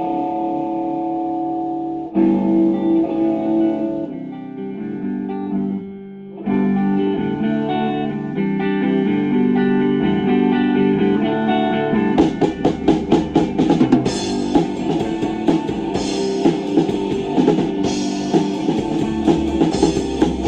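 Rock band playing live. A guitar plays sustained chords alone, then the drum kit and the rest of the band come in about twelve seconds in, with a steady driving beat.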